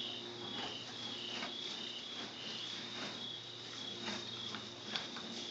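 Insects chirping: a steady high trill with a second chirp repeating about twice a second, over a low steady hum and a few faint clicks.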